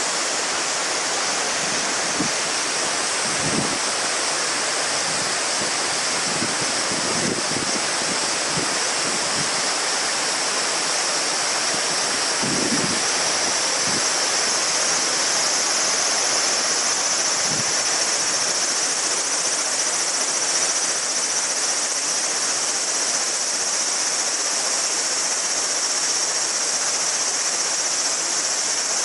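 River water babbling steadily, with a chorus of cicadas droning high above it that grows stronger about halfway through. A few deeper gurgles come in the first half.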